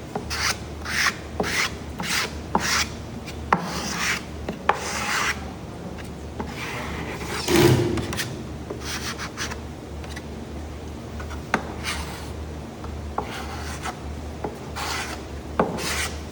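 Glue being spread with a scraper over a wooden panel for veneering: repeated rasping scrape strokes, about two a second, thinning out in the middle and picking up again near the end.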